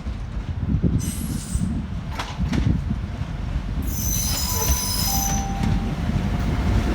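Passenger train rolling slowly through a station: a steady low rumble with high-pitched wheel squeal about a second in and again from about four to five and a half seconds in, plus a few sharp clicks from the wheels.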